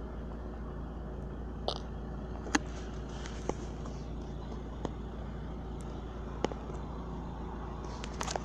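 Steady low rumble of a car heard from inside the cabin, with a few faint, short clicks scattered through it.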